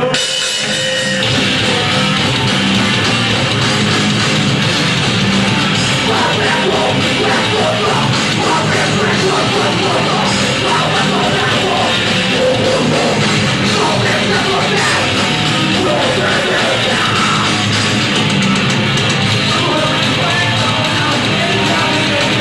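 Heavy metal band playing live and loud, the song kicking in at the very start.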